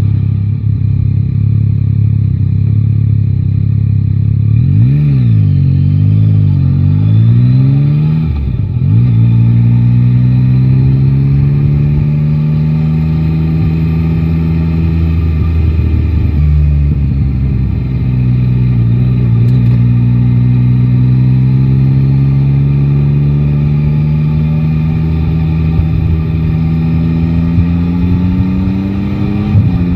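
Yamaha Tracer 9 GT motorcycle's three-cylinder engine under way: steady at first, a few quick rises and falls in pitch about five seconds in, then climbing in pitch as it accelerates, a sudden drop a little past halfway, and a long slow climb afterward.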